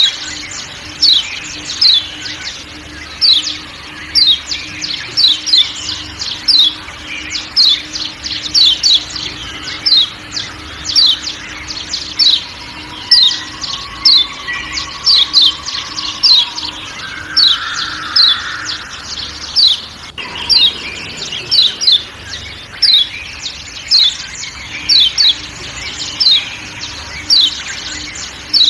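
Kecial kuning (Lombok white-eye) giving a long series of short, sharp, high 'ciak' calls, each dropping quickly in pitch, about one or two a second, over faint forest background.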